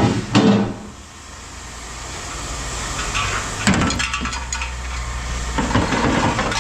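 Pieces of scrap metal clanking as they are dropped and handled during sorting: a couple of sharp clangs at the start and another a little past halfway, over the steady low hum of machinery running.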